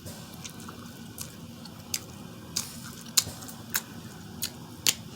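Close-up wet eating sounds of a person eating boiled seafood: a string of sharp, sticky mouth clicks and smacks, roughly one every half second to second.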